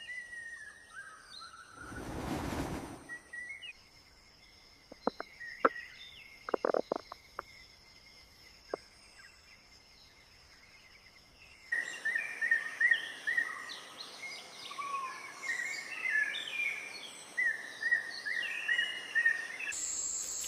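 Forest ambience with small birds chirping and calling. There is a brief whoosh about two seconds in and a scatter of sharp clicks a few seconds later. From about halfway on, the chirping is busier and louder, with rapid chirps repeating.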